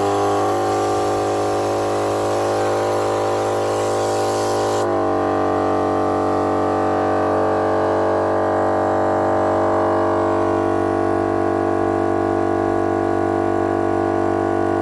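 Mile Marker air compressor running steadily, a loud, even motor hum with many overtones, pumping air through a four-way inflator into the tyres to reach 34 PSI. A hiss of rushing air runs alongside for about the first five seconds, then cuts off suddenly, and the motor note drops slightly as it carries on.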